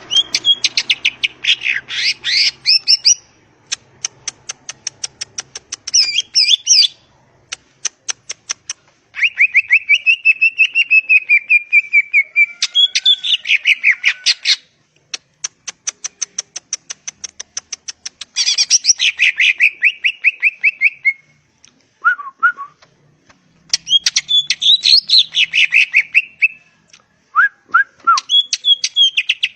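Green leafbird (cucak ijo) singing a long, varied song: rapid runs of clipped ticking notes alternate with loud, scratchy chattering phrases. There are short pauses between phrases, and a couple of brief lower whistled notes come near the end.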